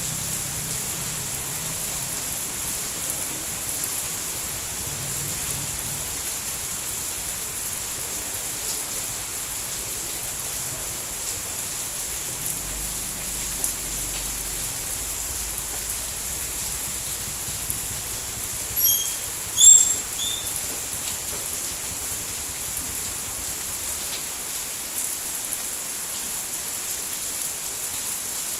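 Steady rain falling, an even hiss. About two-thirds of the way through, a few short high-pitched chirps briefly stand out above it.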